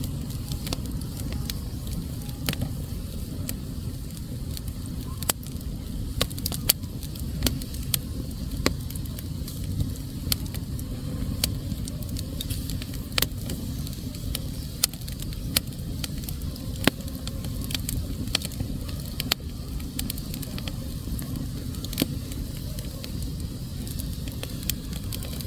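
Fire burning in a fireplace: a steady low rumble with frequent irregular crackles and sharp pops, a few of them louder than the rest.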